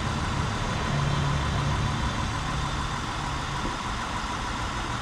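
2003 Acura TL's 3.2-litre V6 idling steadily after its cylinder 6 misfire was repaired, now running smoothly.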